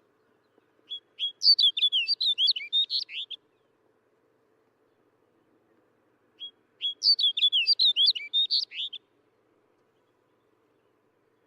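Snow bunting singing: two short, quick warbling song phrases of high, varied notes, about four seconds apart.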